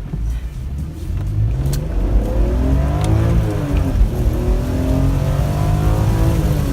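2006 BMW M3 E46's modified straight-six, fitted with cams and making over 400 hp, revving hard under acceleration with its pitch climbing. About three and a half seconds in the revs drop for an upshift, then the engine pulls up through the next gear, and the revs drop again near the end.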